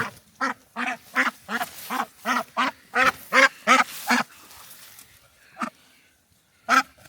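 A duck quacking: a quick run of about a dozen quacks, roughly three a second, then two single quacks near the end.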